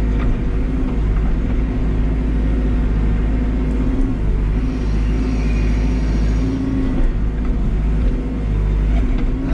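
Backhoe's diesel engine running steadily with a constant low drone.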